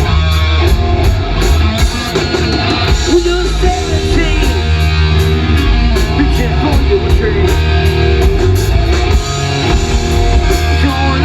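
Rock band playing live: distorted electric guitar over bass and drums, with cymbals keeping a steady beat.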